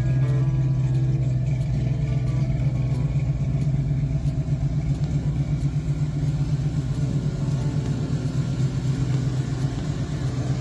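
1966 Ford Mustang's 302 V8 engine running steadily with a low, even rumble.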